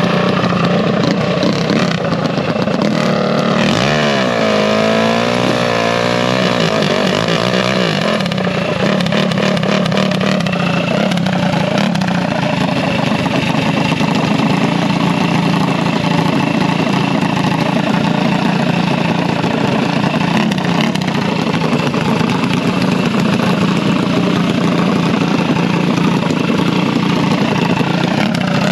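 Drag-racing minibike engines running loudly throughout. The pitch wavers up and down in revs about four to eight seconds in, then settles into a steady drone.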